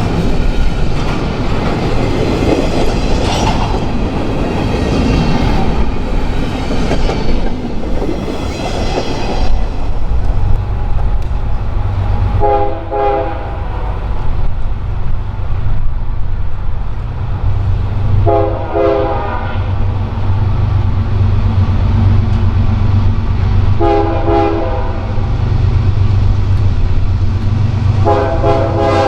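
A train rolls by with wheels clattering on the rails. Then a diesel locomotive idles or runs slowly with a steady low rumble, and its multi-note chime horn sounds four separate blasts, each about a second long and about five seconds apart. The last blast comes near the end.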